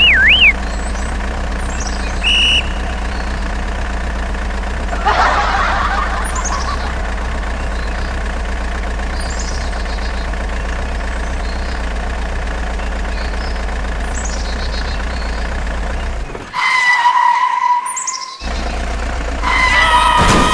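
A vehicle engine runs with a steady low hum, with birds chirping now and then. About three-quarters of the way through, the hum cuts out for a couple of seconds while a held steady tone sounds, and that tone comes back near the end.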